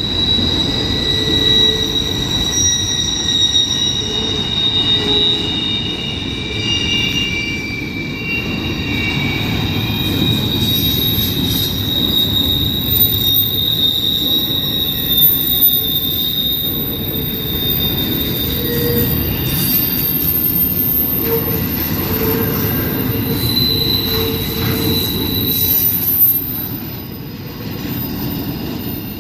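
Freight train cars rolling past on the rails: a continuous rumble of wheels with steady, high-pitched wheel squeal, easing off slightly near the end.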